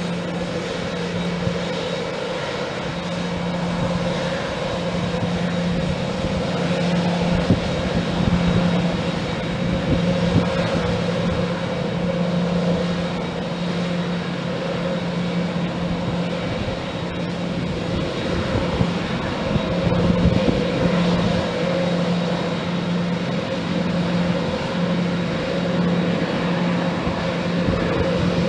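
Aircraft engines running steadily: a continuous rushing noise over a low droning tone that pulses slightly.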